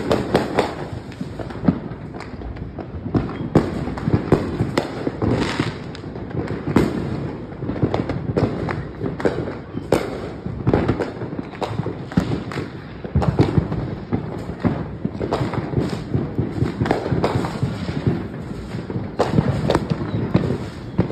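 Many fireworks going off without pause: a dense run of sharp bangs and crackling pops, several a second, with louder blasts standing out among them.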